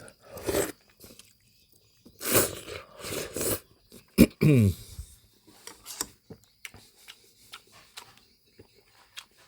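Close-up eating sounds: chewing and biting, with loud noisy stretches in the first four seconds and a short sound falling in pitch about four and a half seconds in, then soft wet clicks of chewing.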